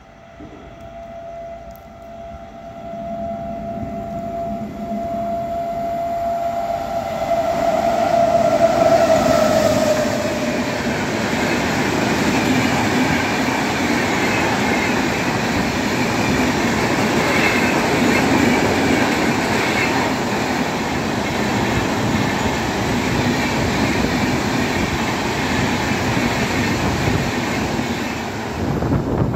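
Indian Railways superfast express train approaching and passing at speed. A steady high tone from the oncoming locomotive swells, dips slightly in pitch as it goes by, and ends about ten seconds in. Then the coaches' wheels rumble and clatter over the rails for nearly twenty seconds, falling away near the end as the last coaches pass.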